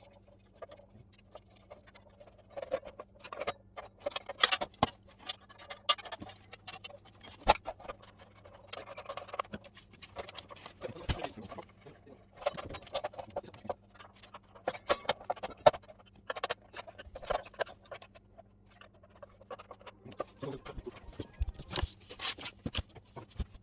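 Irregular clicks, knocks and scraping from hands working on a disassembled mitre saw, handling its parts and tools.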